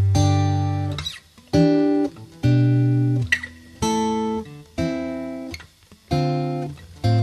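Background music: acoustic guitar playing plucked chords, each struck and left to ring out, with a deep bass note under several of them.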